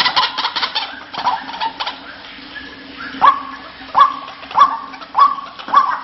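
White-breasted waterhen (ruak-ruak) calling: a fast chatter that fades out in the first second, then from about three seconds in a string of sharp, repeated calls, five in quick succession about 0.6 s apart. This is the waterhen call used as a lure to draw the birds in rice paddies.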